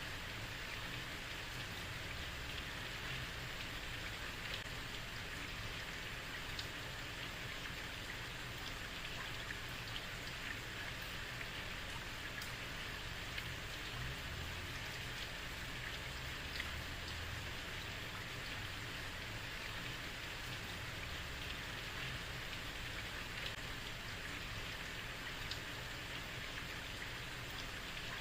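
Heavy rain falling steadily on a street, an even hiss of rain with scattered individual drops ticking on hard surfaces.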